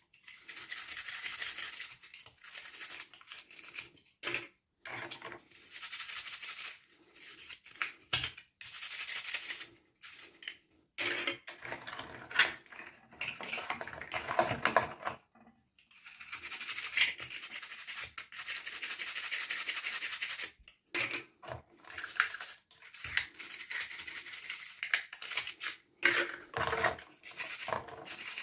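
Plastic toy packaging being handled and unwrapped: stretches of crinkling and rubbing, broken by short pauses and a few sharp clicks.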